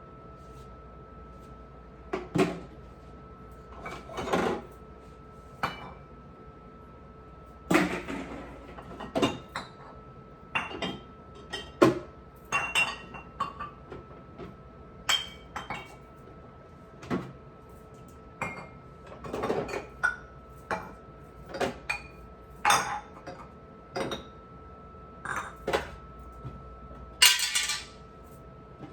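Dishes, glass and utensils clinking and knocking as they are handled and set down one after another, with a longer scraping rattle near the end.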